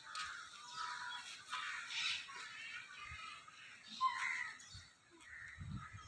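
Birds calling in short, scattered calls.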